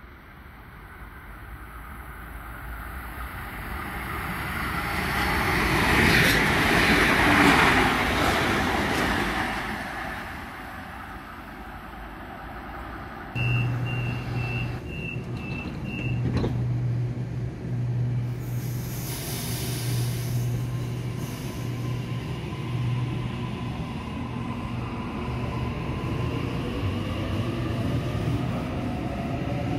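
A train passing through the station, its rumble building to a peak and then fading. Then a Sydney Trains Waratah electric train at the platform sounds a quick series of six high door-warning beeps over a steady low hum, and its motors begin a rising whine as it starts to pull away.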